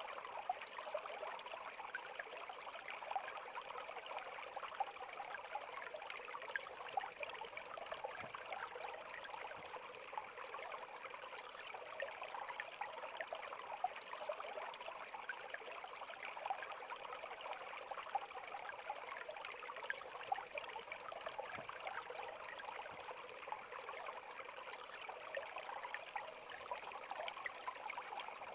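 River water flowing over stones, a steady rushing and trickling with small splashes throughout.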